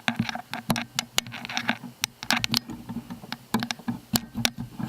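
Irregular dry clicks and rustles close to the microphone, several a second, the sound of handling while the camera is brought in close to a fresh ember.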